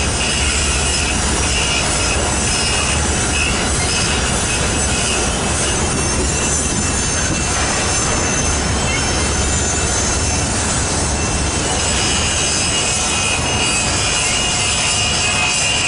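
BNSF intermodal freight cars rolling past slowly: a steady rumble of steel wheels on rail, with a high wheel squeal near the start that returns about three-quarters of the way through.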